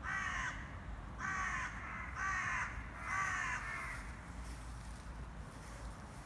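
A bird calling four times, about a second apart. Each call lasts about half a second and falls slightly in pitch.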